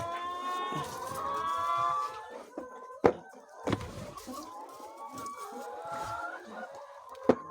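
A flock of chickens calling and clucking over one another, busiest in the first two seconds and then more scattered. A few sharp knocks come about three seconds in, shortly after, and near the end.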